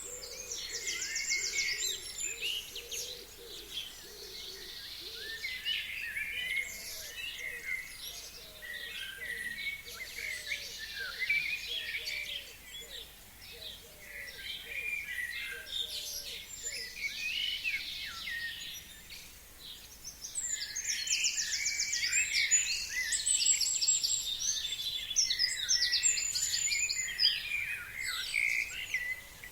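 Several forest birds singing at once in spring: a dense mix of quick chirps, whistled phrases and fast high trills, busiest at the start and again from about two-thirds of the way in. Through the middle a fainter, lower series of short repeated notes runs beneath the song.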